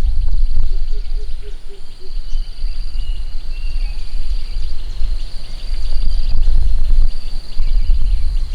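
Outdoor nature ambience: insects trilling in pulses at a high pitch over a heavy low rumble, with a run of about six short low pips early on and a few bird chirps a few seconds in.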